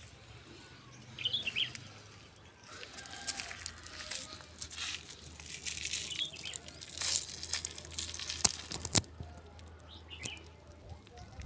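A few short bird chirps, about a second in and again near the end, among rustling, scuffing and clicking noises that are loudest in the middle.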